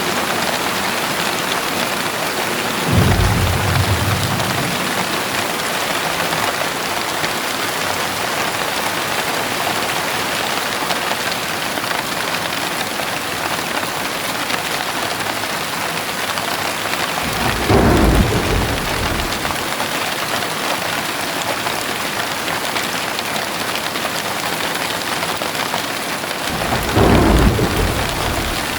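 Heavy rain pouring steadily, with three low rumbles of thunder: one a few seconds in, one a little past the middle, and one near the end.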